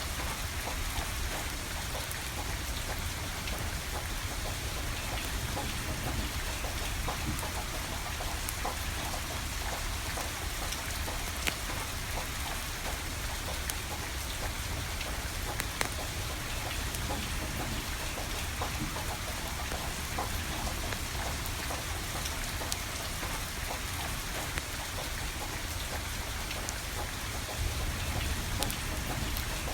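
Steady rain falling, with a scattering of sharp crackles and pops from a burning wood fire.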